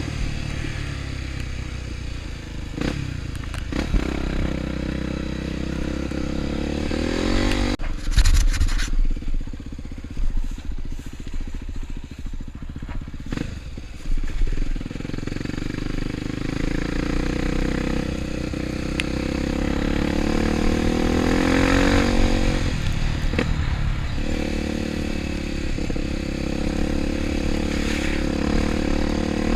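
Off-road motorcycle engine running, its revs rising and falling, with several sudden knocks and scrapes.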